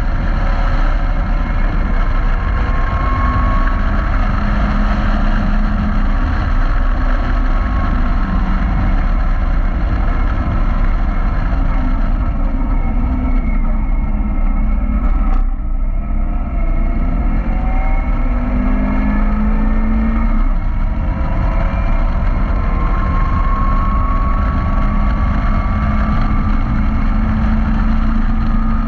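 Caterham Roadsport's engine running hard on a track lap, heard with a loud rumble of wind over the open car. The note eases off around the middle, with a sharp click near then, and climbs steadily under acceleration towards the end.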